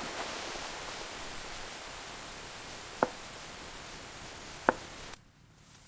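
Steady hiss of heavy rain, which cuts off about five seconds in. Two sharp knocks sound over it, about three and four and a half seconds in.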